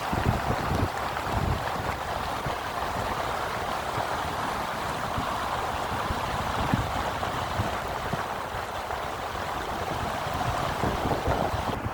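Floodwater rushing in a steady wash of noise, with wind gusting on the microphone.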